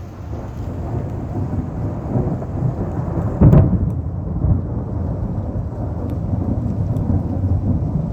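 Thunder: a low rolling rumble that builds, with a sharp crack about three and a half seconds in, then rumbles on.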